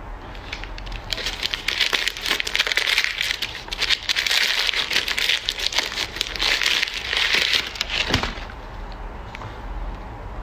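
Plastic packaging crinkling and crackling as it is handled, starting about a second in and stopping about eight seconds in.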